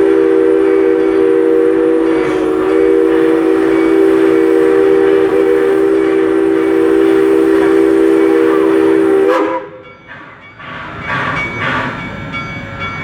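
Steam locomotive's chime whistle blowing one long, steady three-note chord that cuts off about nine seconds in, followed by quieter train noise.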